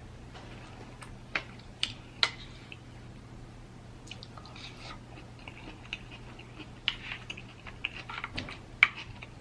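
Close-miked eating of snow crab legs: three sharp cracks of shell early on, then wet chewing and a run of smaller clicks, the loudest crack near the end.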